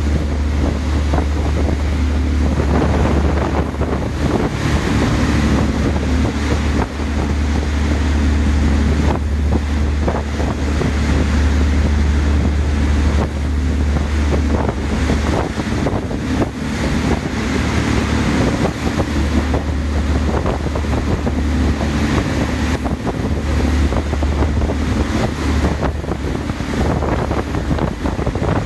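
Glass-bottom catamaran under way: a steady low engine hum under churning wake water, with wind buffeting the microphone.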